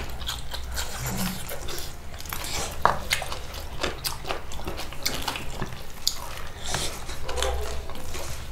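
Close-up eating sounds: chewing and biting on food, with many small scattered clicks.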